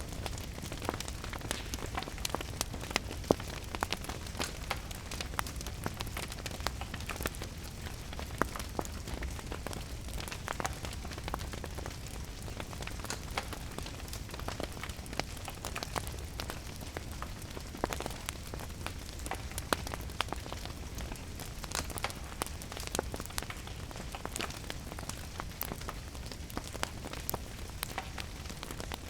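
Rain falling steadily mixed with a crackling wood fire: constant patter and a low rumble, with frequent small crackles and a few louder pops.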